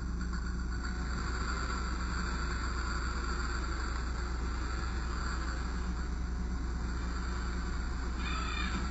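1/14-scale radio-controlled Scania R620 truck model running, a steady low rumble with no change in level. A short warbling higher sound comes in near the end.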